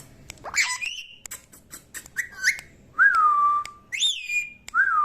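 Green ringneck parrot whistling: a run of short whistles, several sliding up sharply and then settling into a held note, with light clicks between them.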